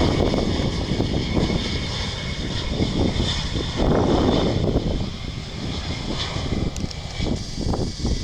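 Airbus A319-132 jet engines (IAE V2500) whining on a landing arrival, the sound fading over the second half, with gusty wind buffeting the microphone.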